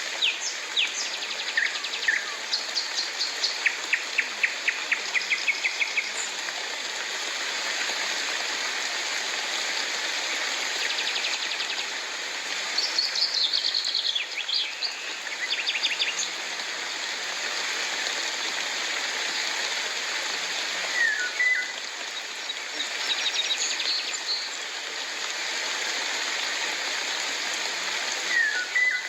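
Steady rain hissing, with birds calling over it: a quick run of repeated chirps a few seconds in, another cluster of calls about halfway through, and short sliding whistles near the end.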